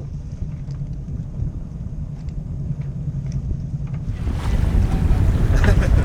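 Wind buffeting the microphone aboard a moving sailboat over a steady low rumble. About four seconds in, a louder rush of wind and water comes in.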